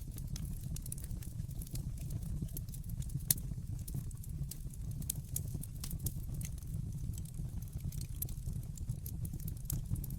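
Wood fire burning in a fireplace: a steady low rumble with scattered sharp crackles, and one louder pop about a third of the way in.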